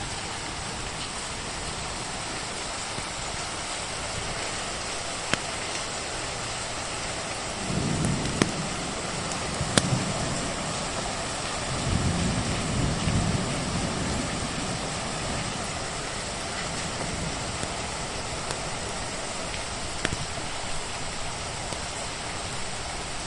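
Steady rain with a few sharp pops from a crackling wood fire. Twice around the middle a low rumble swells and fades.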